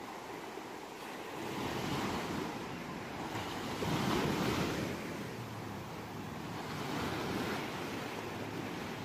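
Ocean waves breaking on a shore, the surf swelling and receding about three times, loudest near the middle.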